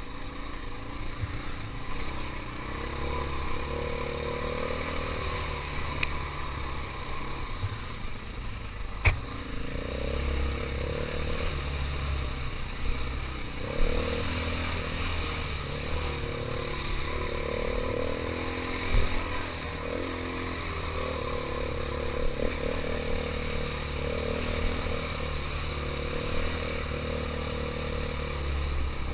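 KTM 500 EXC single-cylinder four-stroke dirt bike engine running on a trail ride, the throttle opening and closing so the pitch rises and falls. Sharp knocks and clatter come through now and then, the loudest about nine, fourteen and nineteen seconds in.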